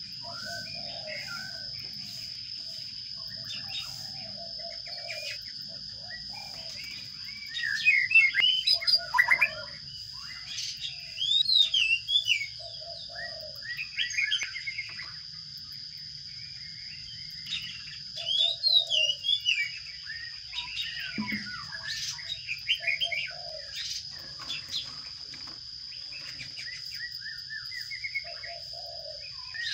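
Sparrows chirping in several loud bursts of rapid, sliding notes, over a constant high-pitched whine.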